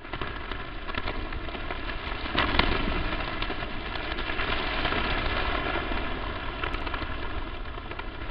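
Crackling static: a steady hiss thick with small pops and crackles, swelling louder about two and a half seconds in.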